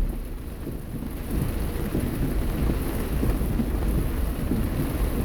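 Heavy rain falling on a moving car, with a steady low rumble underneath.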